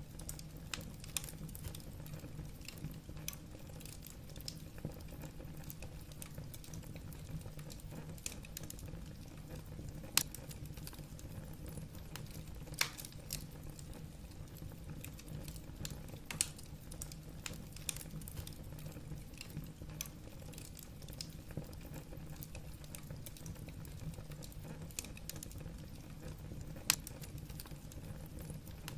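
Wood fire burning in a fireplace: irregular sharp crackles and pops from the burning logs over a steady low rumble of the flames, with the loudest pops about 10, 13, 16 and 27 seconds in.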